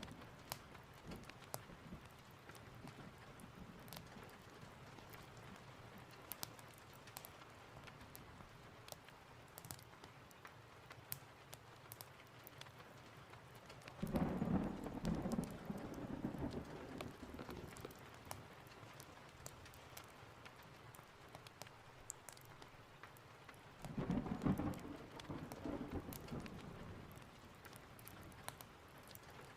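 Steady rain with scattered sharp ticks, and thunder rumbling twice: once about halfway through and again near the end, each roll lasting a few seconds.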